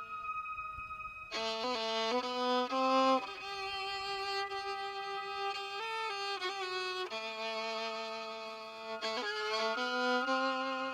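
Violin playing a slow melody of held notes that step from one pitch to the next, coming in fuller about a second in after a softer held tone.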